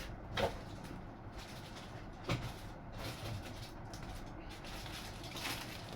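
A few sharp knocks and clicks from model aircraft parts being handled and unpacked, the clearest about half a second in and just after two seconds, over a steady low rumble.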